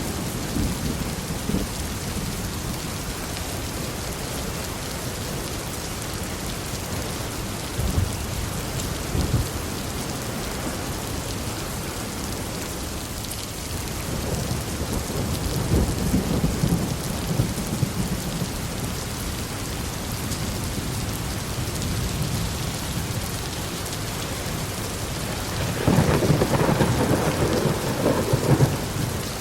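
Steady heavy rain with rolling thunder: short rumbles twice about eight seconds in, a longer roll midway, and the loudest rumble near the end.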